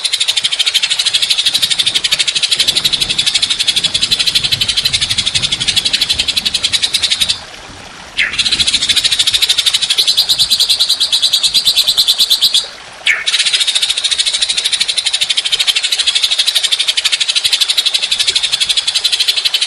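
A songbird's long, harsh, rapid-fire trill: a fast rattle of notes held for seconds at a time, broken by two short pauses, one a little before halfway and one about two thirds through. It is the 'long rough shot' kind of song used in masteran recordings to tutor caged songbirds.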